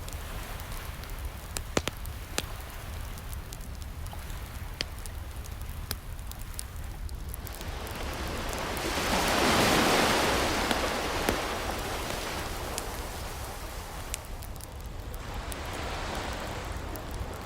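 Wood fire crackling with scattered sharp pops over the wash of ocean waves. One wave swells and breaks, loudest about halfway through, and a softer one follows near the end.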